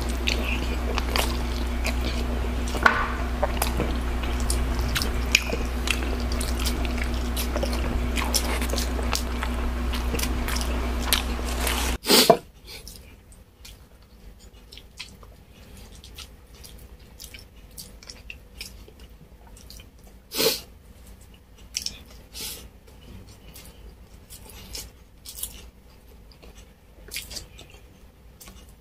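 Close-miked mukbang eating: chewing and mouth smacking, heard as many small wet clicks. For the first twelve seconds it sits over a steady low hum. The hum then cuts off with a loud click, and quieter chewing and smacks go on, with one louder smack about twenty seconds in.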